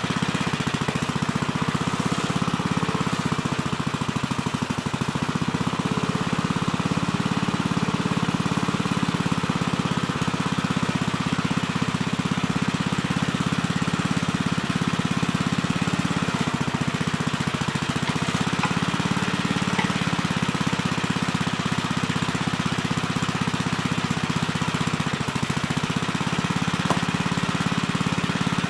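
Gravely Terramite compact backhoe's engine running steadily under digging work, its pitch sagging briefly a few times.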